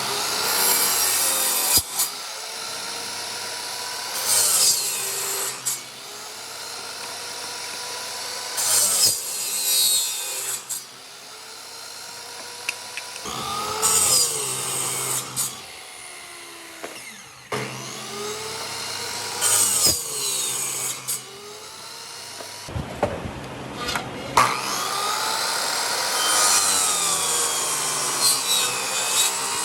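A power tool cutting or working wood in repeated passes, loud strokes coming every four to six seconds. Its motor whine bends down and back up in pitch as it bites into the wood.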